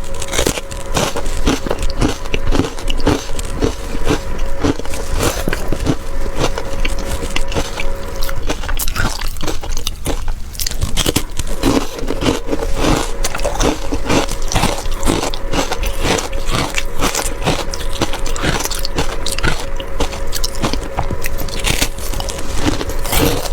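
A person biting and chewing ice close to the microphone: a steady run of loud, rapid crunches and cracks as the ice breaks between the teeth.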